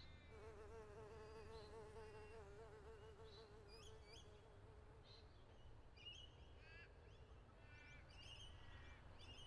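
A faint fly buzzing with a wobbling hum that stops about five seconds in, while small birds chirp faintly now and then.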